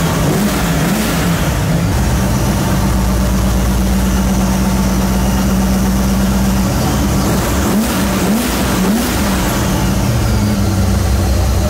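ProCharger-supercharged 408 stroker V8 in a Holden VX Commodore idling, its throttle blipped by hand at the throttle body: a short rev about a second in and three quick revs around eight seconds in.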